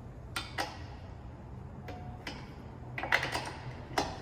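Sharp metallic clicks and taps of a wrench as the motorcycle's rear axle is tightened down and locked, scattered a few at a time with the strongest click near the end.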